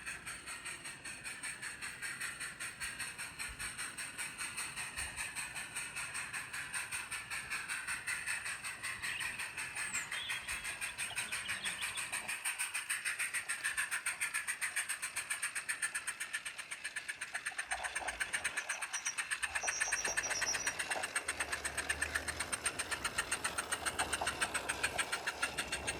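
Small live-steam model locomotive chuffing rapidly and evenly, about six exhaust beats a second through its Summerlands Chuffer, growing louder toward the end.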